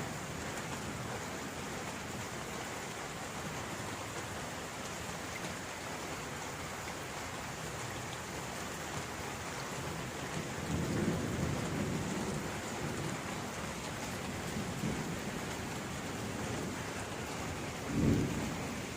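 Steady heavy rain falling, with low rumbles of thunder swelling about halfway through and a shorter, louder rumble near the end.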